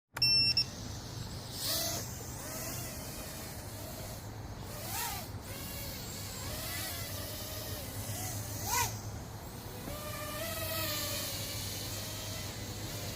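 A short electronic beep, then a small quadcopter's motors whining in flight, their pitch rising and falling with the throttle, with two quick swoops up and down about five and nine seconds in.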